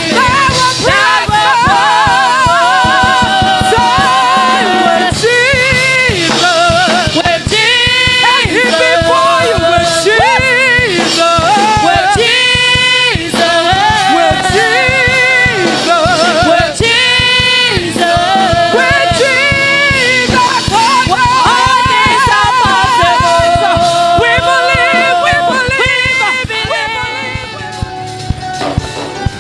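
Gospel worship music: singers holding long notes with vibrato over a band with drums. It gets quieter near the end.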